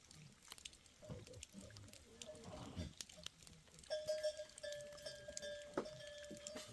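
Goats and sheep of a herd calling, with scattered knocks. From about four seconds in comes a steady ringing tone that fits livestock bells.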